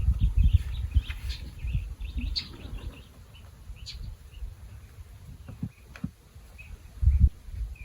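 Small birds chirping in short scattered calls. Gusts of wind rumble on the microphone in the first couple of seconds and again near the end.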